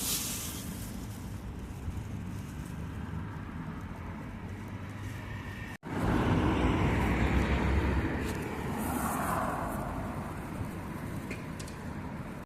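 Outdoor ambience: wind rumbling on the microphone with steady background noise like distant traffic. It cuts out for an instant about six seconds in and comes back a little louder.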